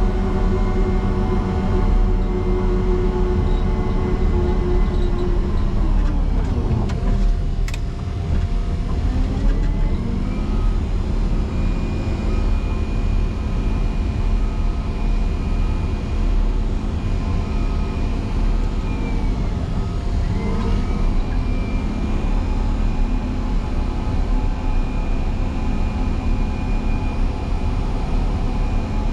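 A motor grader's diesel engine working hard under load as it pushes through a deep snow drift. Its pitch sags as the engine lugs down about six seconds in and again around twenty seconds, then climbs back each time, with a higher whine running alongside in the second half.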